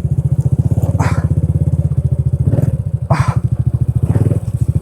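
Honda Dream's small single-cylinder four-stroke engine running steadily, with a rapid even exhaust beat. Two brief noises stand out over it, about a second and about three seconds in.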